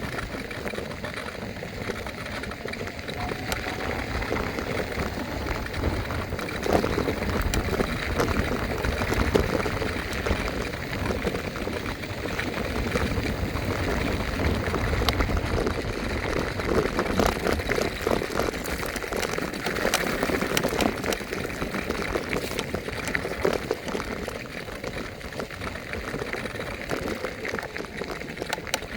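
Ride noise from an electric scooter in motion: wind rumbling on the microphone, with rattling from the wheels and deck over the ground, swelling and easing unevenly.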